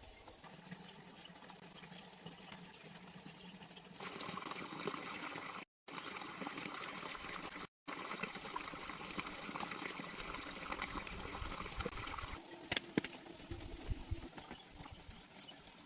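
Water trickling and splashing as a steady hiss, which gets louder about four seconds in and falls back near the end. A few sharp knocks are heard in the last few seconds.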